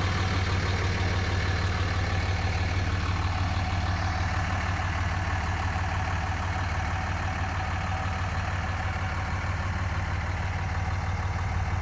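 2004 Dodge Ram 2500's 5.9-litre Cummins 24-valve turbo-diesel inline-six idling steadily.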